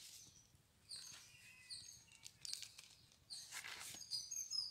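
Birds chirping, short high chirps about every second, with faint rustling in the second half.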